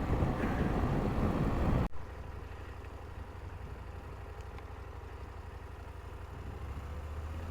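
KTM 890 Adventure motorcycle engine running, first under wind noise while riding. After a sudden cut about two seconds in, a quieter, steady low engine rumble.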